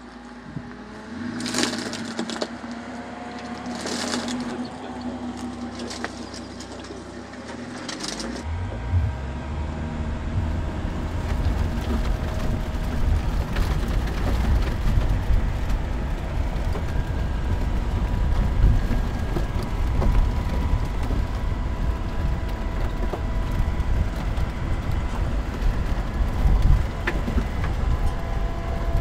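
Mercedes-Maybach G 650 Landaulet's V12 engine, first with a steady hum broken by a few sharp cracks, then from about eight seconds in a heavy, uneven low rumble as the truck drives along a dirt track.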